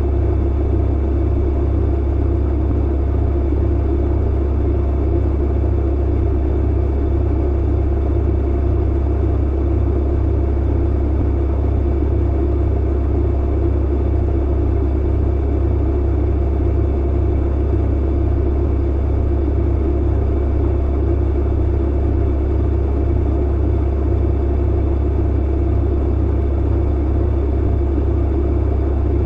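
Clothes dryer running: a steady, even low rumble of the tumbling drum with a deep hum underneath.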